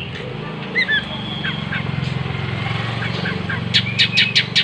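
Oriental magpie-robin giving short chirps and whistled notes, with a quick run of about six sharp clicks near the end, over a steady low hum.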